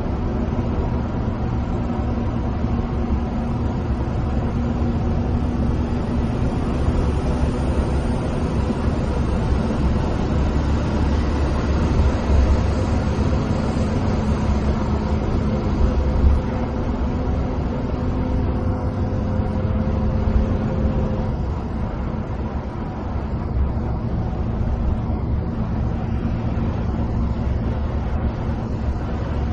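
Coach bus engine and tyre roar on the road, heard from inside the cabin: a steady, loud drone. Its engine tone drops away about two-thirds of the way through.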